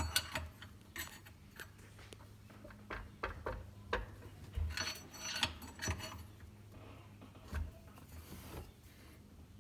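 Irregular metal clinks and knocks of tools and engine parts being handled, about a dozen scattered through, over a faint steady low hum.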